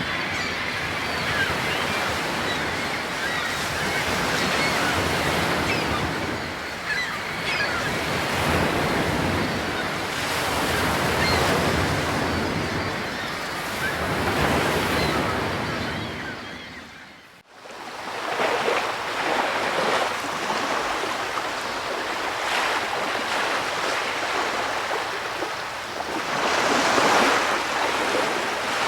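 Ocean waves washing in, the noise swelling and fading every few seconds, with a brief dropout a little past halfway.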